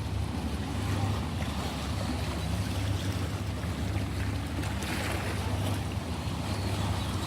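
Ocean waves washing on a shore, a steady hiss of surf over a constant low rumble, with one wave swelling louder about five seconds in.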